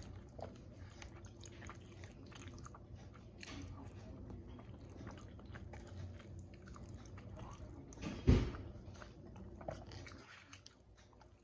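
Close-up chewing and mouth sounds of a man eating mac and cheese and baked chicken, with small clicks of a plastic fork picking at food in a plastic takeaway tray. There is one louder knock about eight seconds in.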